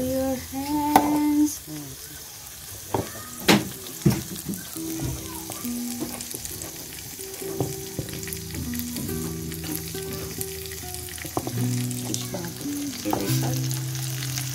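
Breaded fish nuggets sizzling as they fry in hot oil in a pan, stirred with a metal spoon that clinks sharply against the pan a few times, about a second in and again around three to four seconds in. Faint background music plays underneath.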